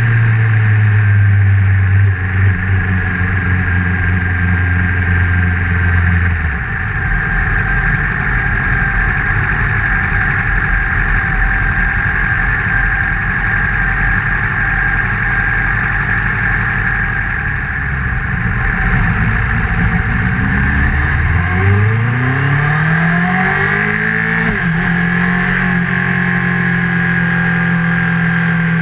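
Honda CBR1000RR inline-four motorcycle engine heard through a GoPro case mounted on the bike. It holds a steady note, then about twenty seconds in revs up for about four seconds as the bike accelerates, drops suddenly at a gear change, and settles into a steady note.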